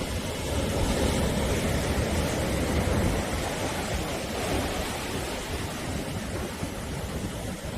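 Sea waves washing onto the shore, a steady rushing surf noise that swells a little and then eases.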